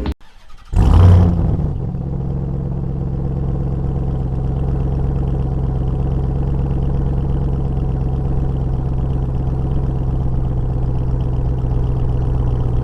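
Supercharged 6.2-litre HEMI V8 of a Ram 1500 TRX SRT flaring loudly about a second in, then running at a steady idle.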